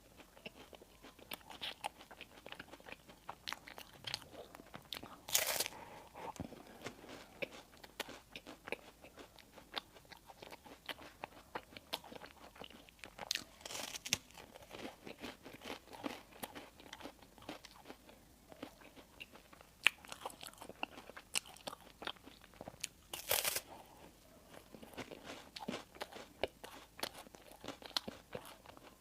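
Close-miked eating of crispy baked bread and burger buns: three louder crunching bites, about 5, 14 and 23 seconds in, with steady wet chewing and small crackling clicks between them.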